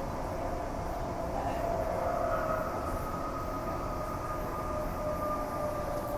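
Transperth A-series electric multiple unit running between stations, heard from inside the carriage: a steady rumble with a faint whine that drifts slightly lower in pitch.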